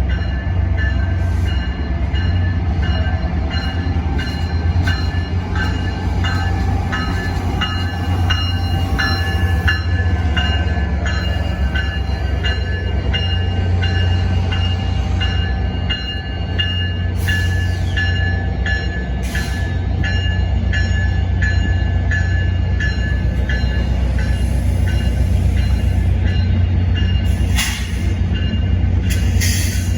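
NJ Transit train at the platform: a steady low rumble with a repeated ringing about twice a second, typical of a locomotive bell, which stops about three quarters of the way through. A few short hisses come near the end.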